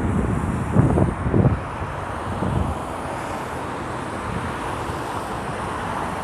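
Steady road traffic noise, with a few low thumps in the first second and a half.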